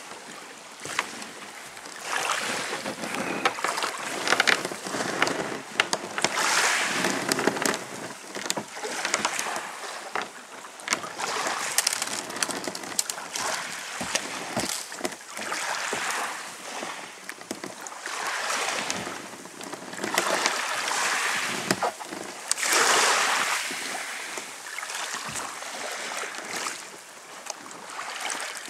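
Water splashing and sloshing around a kayak in surges every two or three seconds, with small knocks and clicks mixed in.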